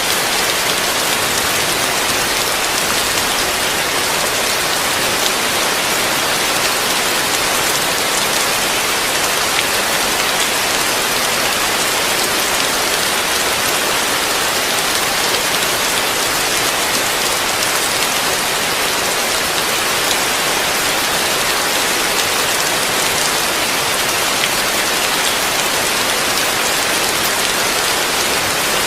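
Heavy rain falling steadily on a roof, a dense even hiss of drops with no let-up.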